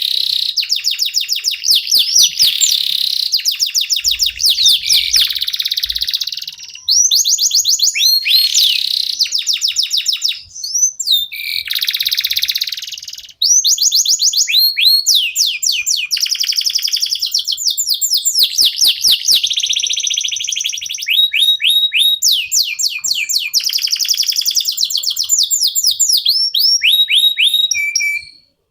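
Domestic canaries singing a long, loud, rolling song of rapid trills and fast repeated whistled notes, switching to a new phrase every second or two with only brief breaks. The song cuts off suddenly near the end.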